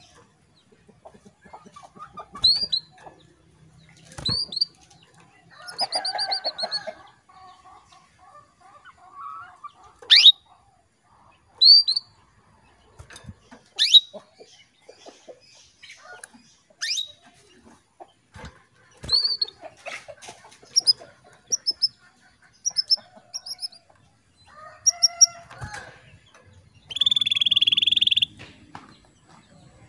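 Female canary calling: short, high chirps and quick sharp sweeps spaced irregularly, with a loud buzzy note near the end. Some lower-pitched clucking calls are mixed in.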